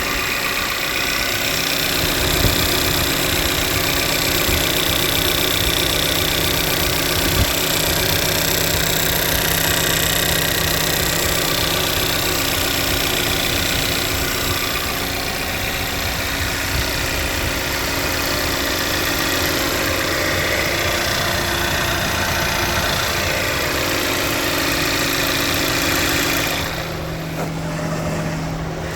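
2018 Toyota Camry engine idling after start-up, showing the start-up ticking that the owner says fades as it runs and has grown worse since about 30,000 miles. The sound drops slightly in level near the end.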